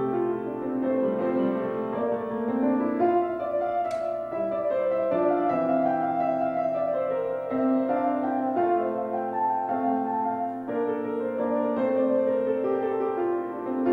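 Piano music: slow, held chords that change about once a second, with one sharp click about four seconds in.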